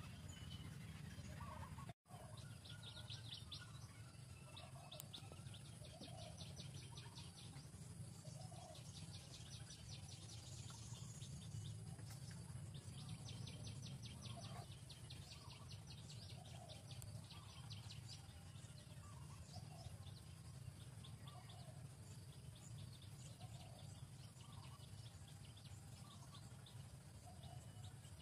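Faint outdoor bird sounds: short calls repeating every second or two and runs of rapid, high ticking chirps, over a steady low hum. The sound drops out for an instant about two seconds in.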